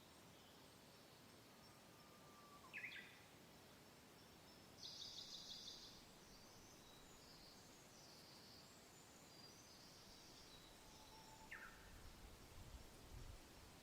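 Faint birdsong over a soft, steady hiss of wind: scattered short calls, including a high buzzy trill about five seconds in and two quick downward-sweeping notes. There is a brief low rumble of wind near the end.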